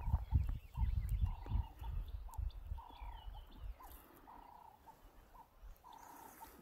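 A bird calling over and over: a steady mid-pitched note about every second and a half, with a short clipped note between each, and faint chirps from other birds higher up. A low buffeting rumble on the microphone is the loudest sound in the first half, then dies away.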